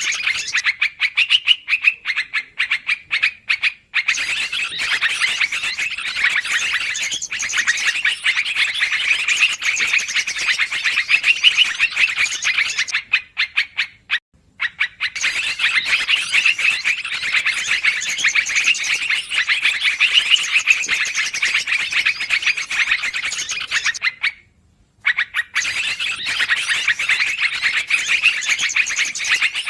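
Dense, noisy chattering of many yellow-vented bulbuls calling over one another in rapid chirps, a bird-trapping lure-call recording, broken by three brief silences about 4, 14 and 25 seconds in.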